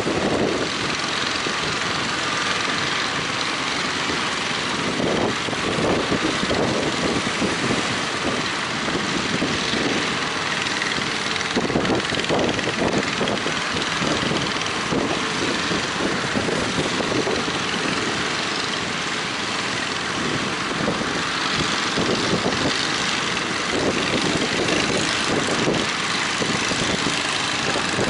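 Fishing boat engines running steadily.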